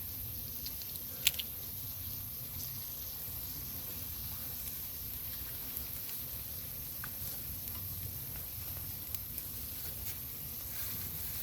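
Food sizzling as it cooks over a fire: a steady hiss, with one sharp crack about a second in.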